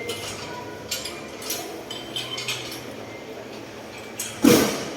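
A few light clicks and clinks of objects being handled, with a louder short knock about four and a half seconds in.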